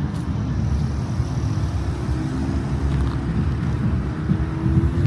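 Car engine rumbling as a car drives away, its pitch rising slowly through the second half as it accelerates.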